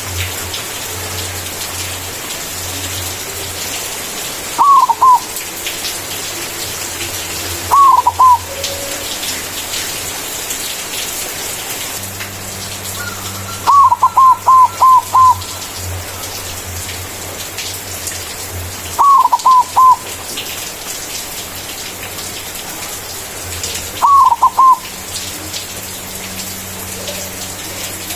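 Zebra dove (white perkutut) singing its cooing song. Five short bouts of three to five quick, clipped coos come several seconds apart, the longest near the middle, over a steady hiss and low hum.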